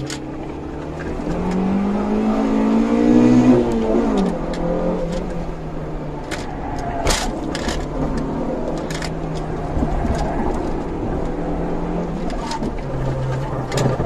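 Honda CRX engine heard from inside the cabin, revving up hard for a couple of seconds, then dropping sharply in pitch about four seconds in and running at fairly steady revs. Several sharp knocks or clicks come through the middle part.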